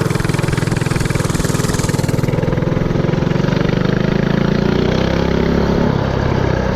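Predator 224cc single-cylinder four-stroke engine of a mini-bike running under way, its note rising as it speeds up a few seconds in, then holding steady.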